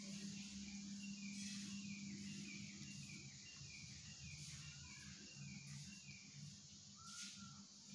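A bird repeating a short chirp about twice a second for several seconds, with one more chirp near the end, over a steady low hum.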